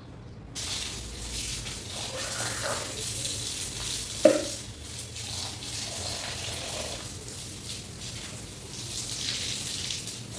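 Tap water running and splashing over long, shampooed hair as it is rinsed, the steady hiss starting suddenly about half a second in. A single sharp knock sounds about four seconds in.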